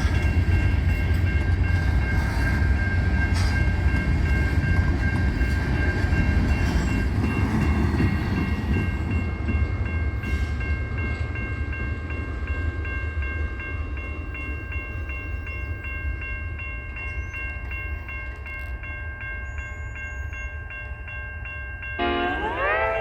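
Freight train rumbling through a crossing, the rumble slowly fading, while a crossing bell rings steadily. About a second before the end, a locomotive horn starts, its pitch sliding up as it comes on.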